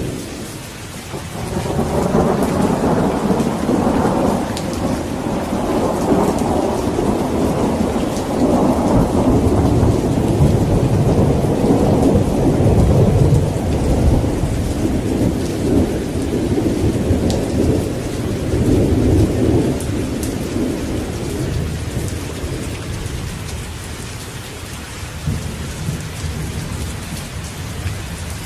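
Steady rain with a long roll of thunder rumbling under it; the thunder swells about a second or two in, is loudest near the middle and slowly dies away toward the end.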